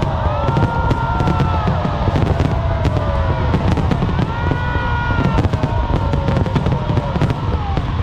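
Dense fireworks barrage: a continuous low rumble of bursts with rapid crackling, overlaid by several whistling shells, each whistle held about a second and dropping in pitch as it ends.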